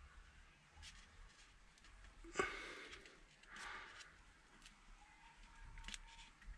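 Quiet hand work on a motorcycle brake caliper as a piston and its seal are being fitted: one sharp click about two and a half seconds in, with a few soft breaths between.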